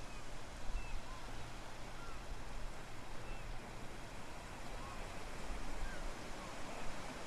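Outdoor Venetian waterside ambience: a steady wash of noise with a low motor rumble that eases about six seconds in. Faint, short high chirps are scattered throughout.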